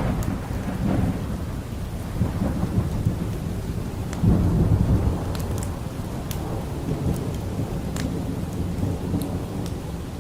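Steady rain with low rolling thunder that swells about four seconds in, and a few sharp pops and crackles from a wood fire scattered through the second half.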